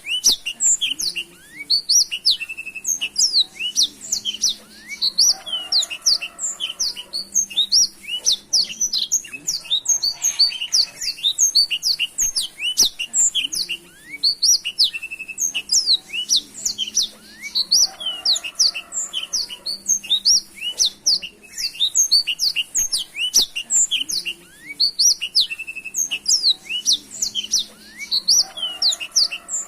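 Black-throated canary (blackthroat) singing a fast, unbroken song of quick high chirps and trills, with a lower, buzzier phrase coming back about every twelve seconds.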